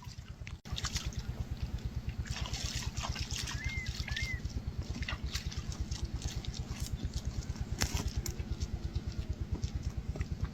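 A small engine running steadily at low speed, its rapid even firing beat throbbing low, with two short bird chirps about four seconds in.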